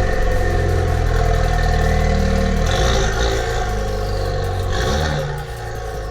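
The Camaro's 2.0 L turbocharged LTG four-cylinder runs loud through a catless downpipe and the stock exhaust. Its note breaks and changes pitch about two and a half seconds in and again about five seconds in, then runs quieter.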